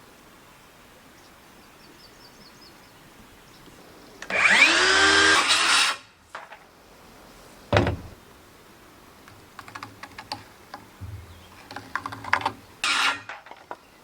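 A power drill working scrap lumber: it spins up with a rising whine and runs for about a second and a half, a wooden knock follows, then scattered small clicks and a second short burst of the drill near the end.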